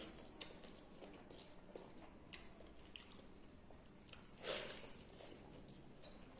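A person chewing and biting food close to the microphone, with wet, squishy mouth noises and small clicks from eating water-soaked rice (pakhala) with fried bitter gourd. One louder, longer mouth sound comes about four and a half seconds in.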